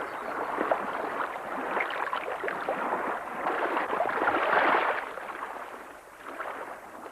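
Young trout splashing and churning at the surface of a hatchery stew pond as they feed on pellets: a dense patter of small splashes that builds to its loudest about four to five seconds in, then eases off.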